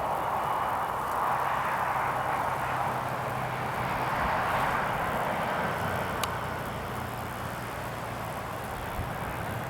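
Jet airliner engines running at taxi power, heard at a distance as a steady rush of noise with a faint low hum, swelling slightly in the middle and easing toward the end.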